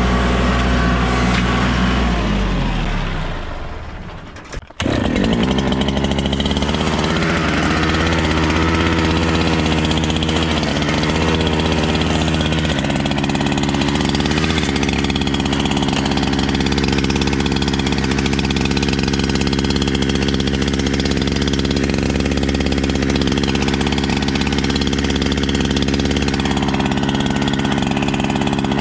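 An engine running at a steady speed. About two seconds in it dies away to almost nothing, then cuts back in sharply and runs on evenly.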